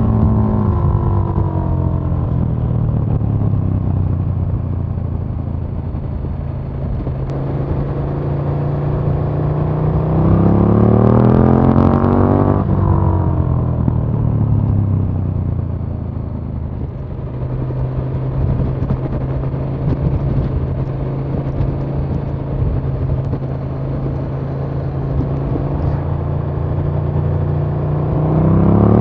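KTM 1290 Super Duke R's V-twin engine, heard onboard while riding. It winds down at first, climbs in pitch under acceleration from about nine seconds in, drops sharply about thirteen seconds in, runs fairly steady, then climbs again near the end.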